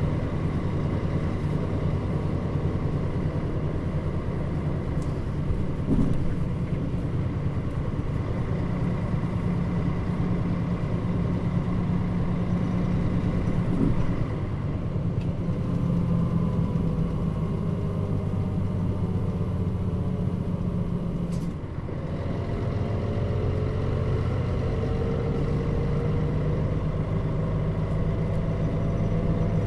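Interior running sound of a Mitsubishi Fuso Aerostar city bus (KL-MP35JM, Nishinippon body) under way, its diesel engine droning steadily. About three quarters through the engine note drops briefly, as at a gear change, then climbs as the bus accelerates.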